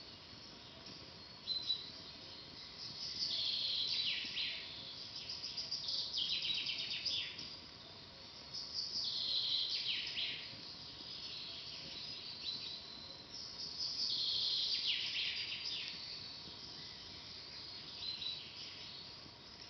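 Songbirds singing: high trilled phrases that sweep downward, repeating every three to five seconds, over a faint steady hiss.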